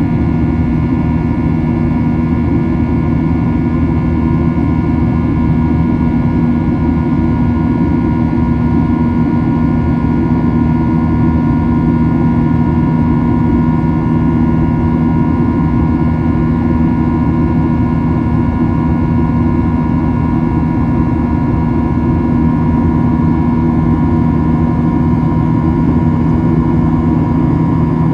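Boeing 737-800's CFM56-7B jet engines heard inside the passenger cabin: a loud, steady drone with several constant tones over a rush of air noise.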